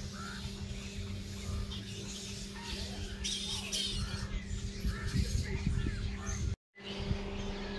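A roosting colony of flying foxes squawking and chattering in the trees, many short scattered calls overlapping, over a steady low hum.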